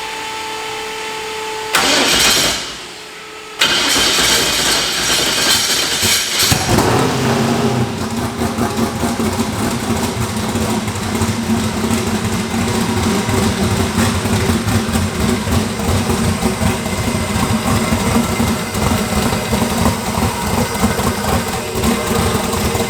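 Twin-turbo Mustang race car's engine being started: a few seconds of loud cranking and whirring, then it catches about 7 s in and settles into a steady idle.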